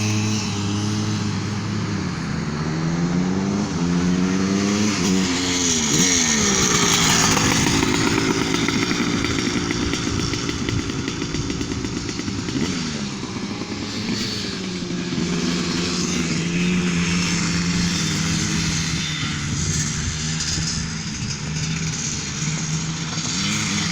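Small dirt bike engine running and revving, its pitch rising and falling several times with steadier stretches between.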